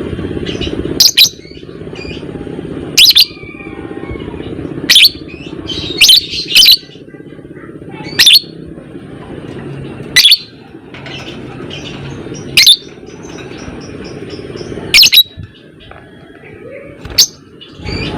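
Lovebird giving short, shrill chirps about every two seconds, some in quick pairs, over a steady low background rumble.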